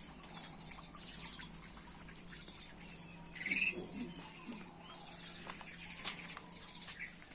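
Small birds chirping in a few short, scattered calls, the loudest a brief high chirp about three and a half seconds in, over a faint steady low hum.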